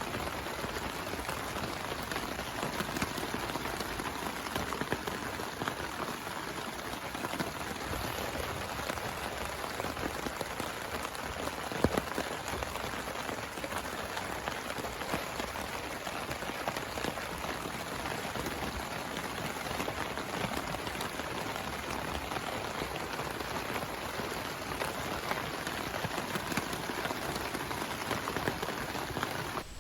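Heavy rain falling steadily, a dense, even patter of drops on a surface, with one sharper single knock about twelve seconds in.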